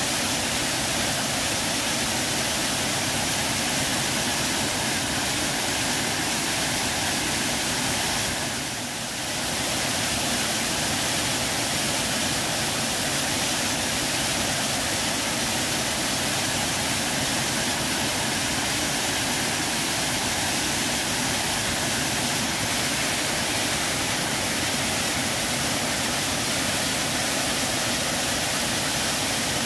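Waterfall: a steady rush of falling and splashing water, briefly softer for about a second around nine seconds in.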